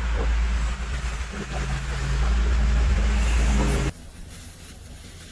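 A motor vehicle running, with a low rumble, a steady engine hum and road or wind noise that cut off abruptly about four seconds in, leaving a quieter background hiss.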